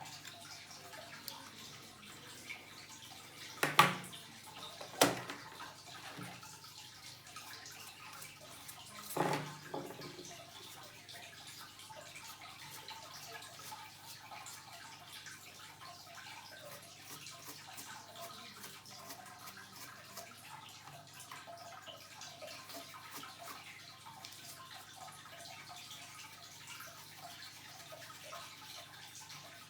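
A steady background hiss, broken by three short, sharp knocks: two close together about four and five seconds in, and a softer one about nine seconds in.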